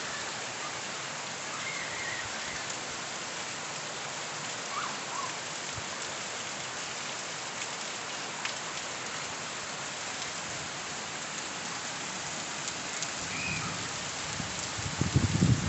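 Heavy rain pouring steadily on tiled roofs and paving, an even hiss. A low rumble starts near the end.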